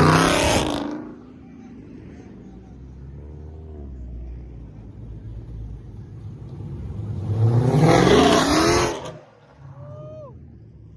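Car engines revving hard as cars accelerate past, rising in pitch: one fading away in the first second, a second one building from about seven seconds in and cutting off just after nine seconds. A lower engine rumble runs between them.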